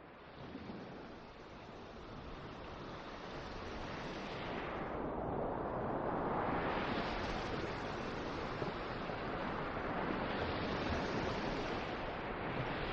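Wind blowing in a steady rush that slowly builds louder over the first several seconds, its hiss easing briefly about five seconds in before swelling again.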